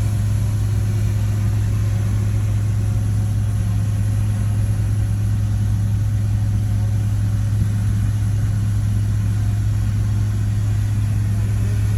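Heavy earthmoving machine's diesel engine running steadily at constant speed, with a deep, unchanging drone.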